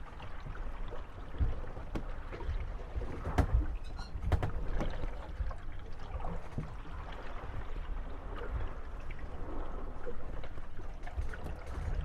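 Moored wooden gondolas rocking on lapping water, their hulls knocking together and creaking. A few sharp knocks stand out, with a short high creak about four seconds in.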